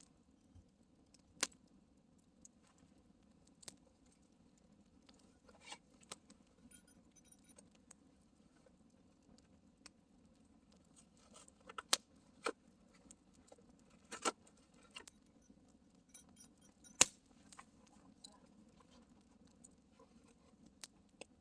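Campfire crackling: burning wood snapping and popping in sharp, irregular cracks, the loudest about seventeen seconds in.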